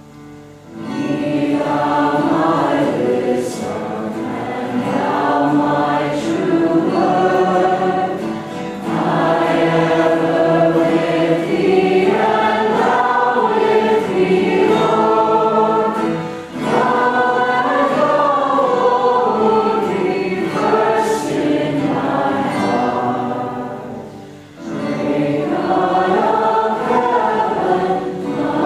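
A choir singing, with sustained phrases that pause briefly about every eight seconds.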